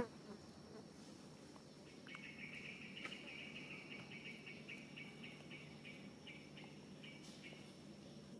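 Faint, evenly pulsed chirping, a trill of rapid repeated chirps that starts about two seconds in and stops about five seconds later, typical of an insect such as a cricket. A brief sharp click right at the start.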